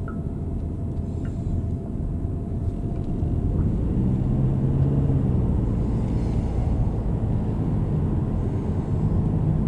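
Steady running and road rumble of a moving vehicle, heard from inside it, growing a little louder about four seconds in.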